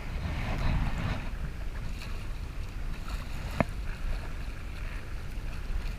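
Kayak running a small rapid: rushing, splashing water with wind rumbling on the microphone, and a single sharp click about three and a half seconds in.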